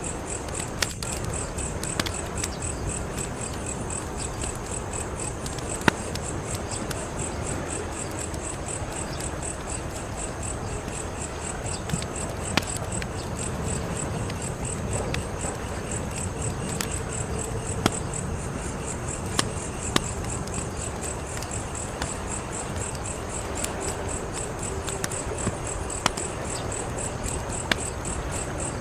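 Wood fire crackling, with a steady hiss and a dozen or so sharp pops scattered through, the loudest about six seconds in. Insects chirp high above it in a fast, even pulse.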